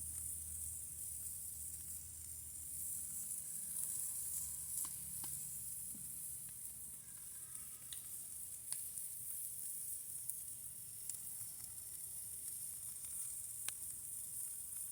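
Hamburger patties sizzling over a campfire: a steady high hiss with a few sharp pops scattered through it.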